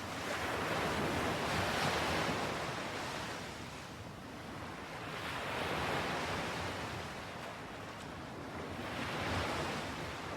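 Ocean waves washing onto a shore, the surf swelling and ebbing in about three slow surges.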